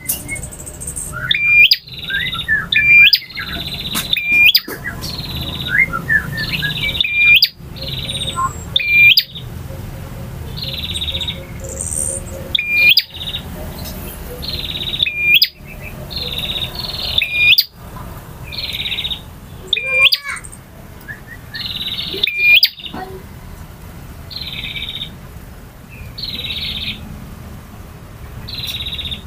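A male bar-winged prinia (prenjak) singing: loud, rapidly repeated short buzzy chirps, about one a second, some ending in a sharp upward flick, with sharp clicks between phrases. The song grows quieter after about three-quarters of the way through.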